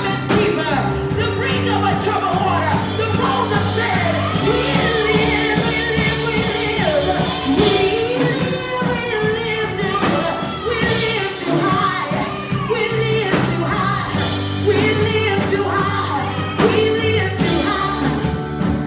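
Live gospel worship music: singing with held, gliding notes over a steady band accompaniment.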